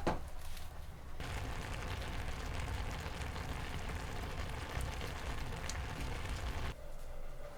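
Steady rain, an even hiss of falling drops that starts abruptly about a second in and stops abruptly near the end. A single sharp knock at the very start.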